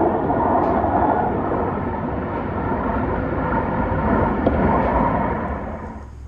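Light-rail train running: a loud, steady rumble and rattle of the moving car that eases off and drops away sharply near the end.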